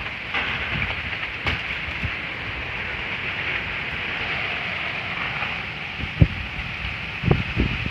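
Strong wind blowing, rumbling on the microphone with a steady rushing hiss and a few short knocks.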